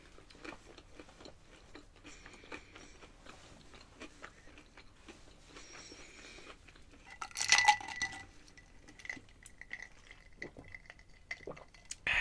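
Soft chewing and mouth sounds of closed-mouth eating. About seven and a half seconds in there is a brief, much louder clatter, and a faint high ringing tone lingers for several seconds after it. Near the end there is a short clink as a glass of iced drink is picked up.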